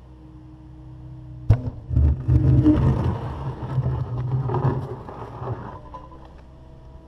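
Takeuchi TB260 excavator's diesel engine running steadily; about a second and a half in a sharp bang, then several seconds of loud crunching and scraping as the bucket breaks up and drags concrete slab, dying back to the steady engine near the end.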